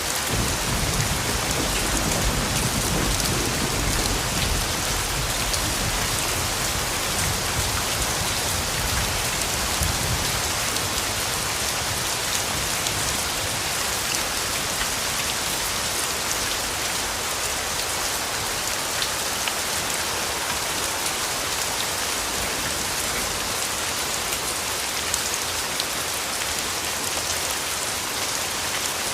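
Steady rain falling, an even hiss of many drops. Over the first ten seconds or so a low rumble of distant thunder rolls under it and then fades out.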